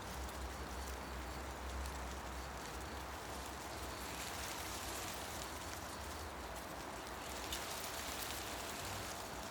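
Wind rustling through tree leaves as a steady hiss, with a low rumble underneath.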